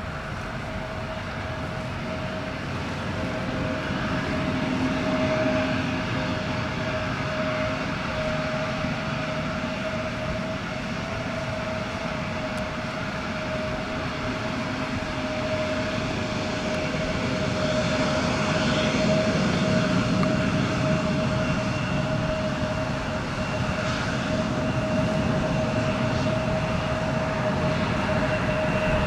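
Embraer 175's GE CF34-8E turbofan engines running at low taxi power as the jet taxis in after landing: a steady engine noise with one held whining tone, growing gradually louder.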